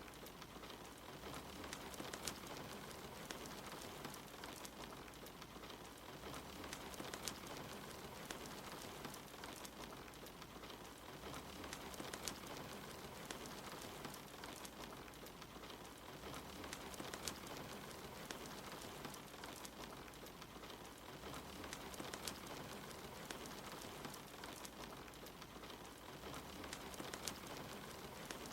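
Steady rain hiss mixed with the scattered sharp crackles of a wood fire, all faint. Underneath, a low rumble swells about every five seconds.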